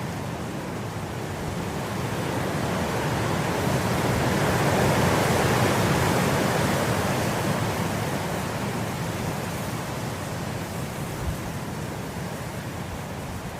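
Wind blowing through grass in a steady rush that swells into a gust about five seconds in, then eases off.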